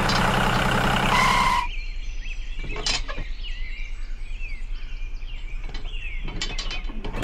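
A loud, noisy mechanical sound with a low hum stops abruptly about a second and a half in. It gives way to birds chirping over a low, evenly pulsing rumble.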